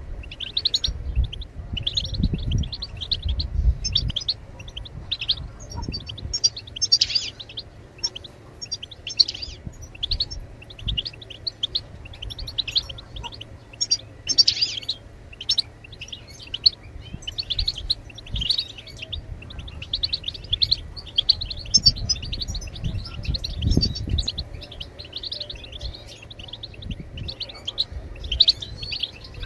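European goldfinches twittering: a continuous rapid stream of short, bright chirps and trills. A low rumble swells underneath twice, near the start and about three-quarters of the way through.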